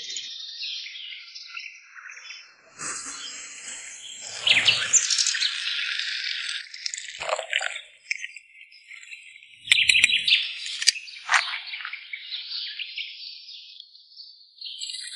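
Birds chirping, with a couple of louder knocks about halfway through.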